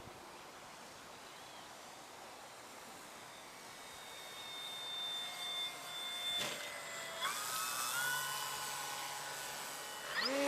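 Electric motor and propeller of an RC model airplane whining in flight, growing louder from about four seconds in, with its pitch stepping up around seven seconds and rising again near the end as the throttle opens.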